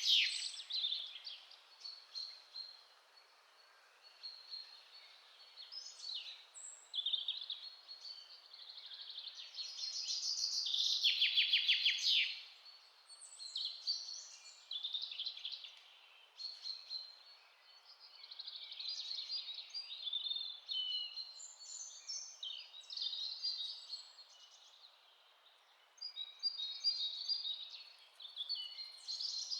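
Several songbirds calling and singing, with short chirps and phrases overlapping throughout and a loud rapid trill about ten seconds in, over a faint steady hiss.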